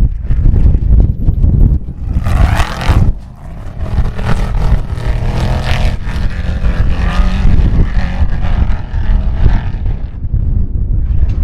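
A race vehicle's engine running and changing pitch as it goes by, over a heavy low rumble of wind buffeting the microphone.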